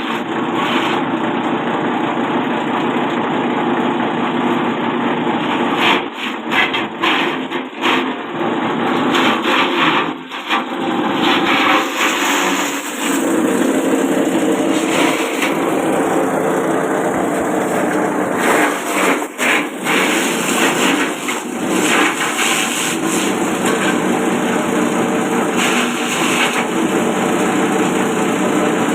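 Small forage chopper driven by a 1/4 hp electric motor, running and cutting plant stalks as they are fed in: a loud, steady chopping noise with several short dips in the first half.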